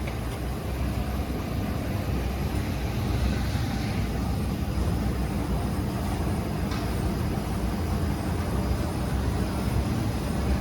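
Flexo printing machine for paper cup fans running with a steady low mechanical hum.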